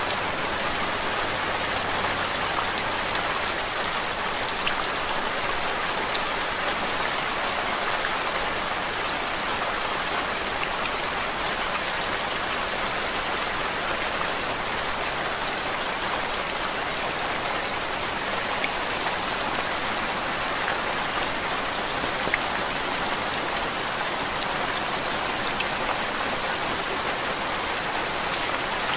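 Steady rain falling on a surface: a dense, even hiss with many small drop ticks scattered through it, unchanging throughout.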